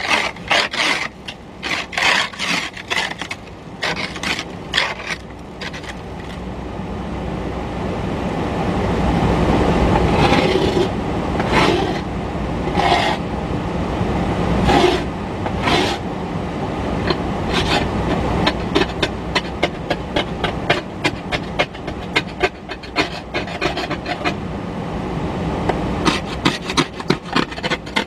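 Ice scraper scraping ice off a car window in repeated strokes: quick short strokes at first, a few longer strokes in the middle, then rapid short strokes near the end.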